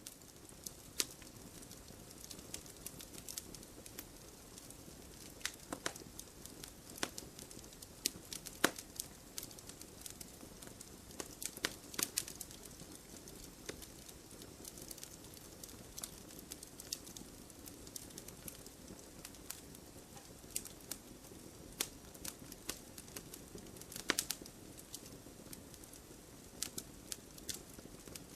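Wood fire crackling in a fireplace: irregular sharp pops and snaps over a steady soft hiss, a few louder pops standing out.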